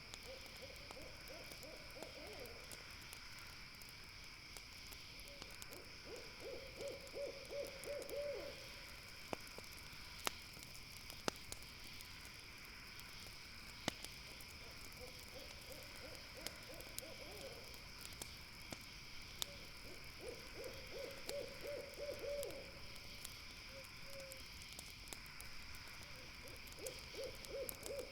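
An owl hooting in runs of rapid, quavering notes, five runs a few seconds apart, over a steady high-pitched drone, with a few sharp pops from a crackling campfire.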